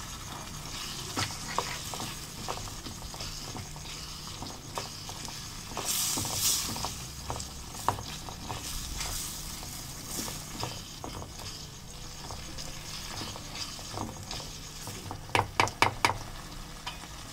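Chicken mince and green peas sizzling gently in a small metal karahi while a wooden spatula stirs and scrapes through them. The hiss swells briefly about six seconds in, and a quick run of sharp knocks comes near the end.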